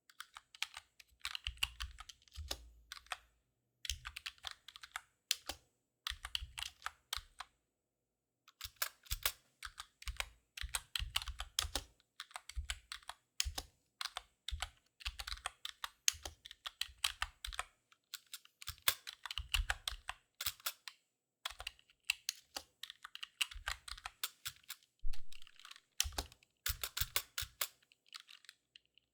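Computer keyboard typing close-up: quick runs of crisp key clicks with brief pauses between them, and a longer pause about eight seconds in.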